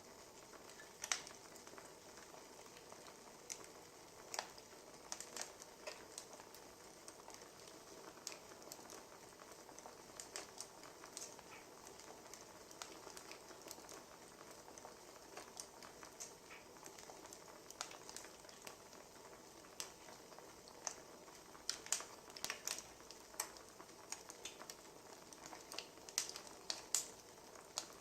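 Wood fire crackling faintly: irregular sharp snaps and pops over a low steady hiss, with a cluster of louder snaps near the end.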